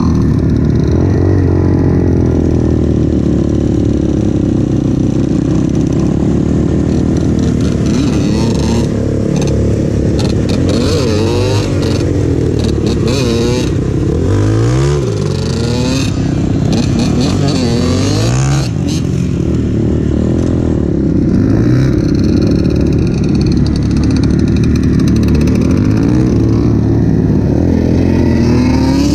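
Single-cylinder four-stroke engine of a 200cc Avantis pit bike running under way, its pitch rising and falling with the throttle several times around the middle.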